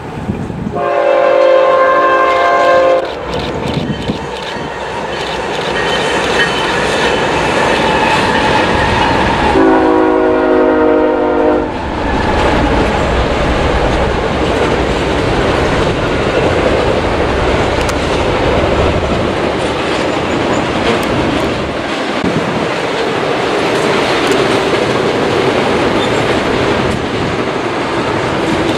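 BNSF intermodal freight train: the locomotive horn sounds two long blasts, about 9 seconds apart. Then the double-stack container cars roll across a steel trestle bridge in a steady rumble and clatter of wheels.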